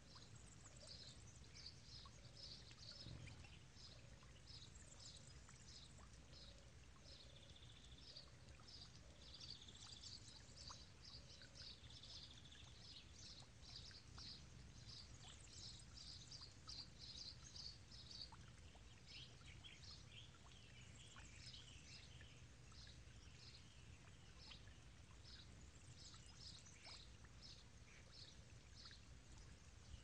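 Faint birdsong: many quick high chirps in running phrases, over a steady low background rumble. For roughly the first twelve seconds a soft low note also repeats about once a second.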